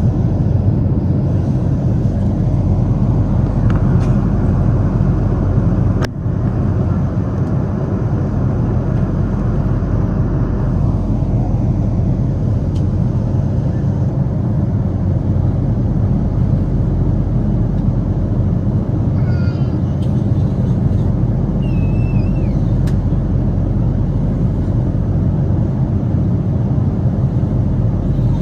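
Steady, loud cabin noise of a Boeing 777 in flight: the engines and airflow, heard from a passenger seat. There is a single sharp click about six seconds in, and the higher hiss thins out after about ten seconds.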